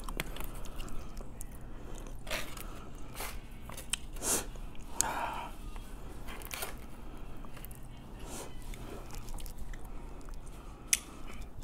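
Close-miked chewing of sushi rolls, with scattered wet mouth clicks and smacks and one sharper click near the end.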